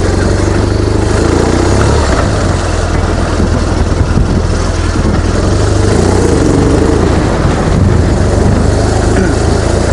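BMW R1200GS boxer-twin engine running steadily under way, with heavy wind rush over the microphone.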